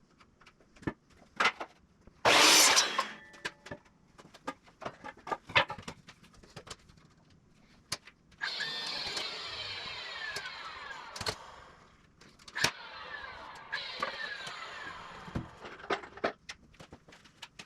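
Power drill driving screws into a 2x4 frame in two long runs, the first about eight seconds in and the second about two seconds later, its pitch falling as the screws seat. Scattered clicks and knocks of handling come between them, and there is a short loud burst of noise about two seconds in.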